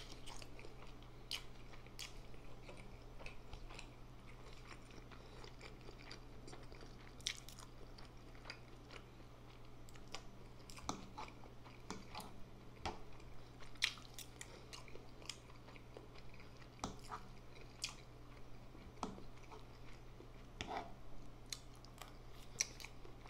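Close-miked chewing of instant noodles with sausage and boiled egg, with sharp wet mouth clicks at irregular intervals. A low steady hum runs underneath.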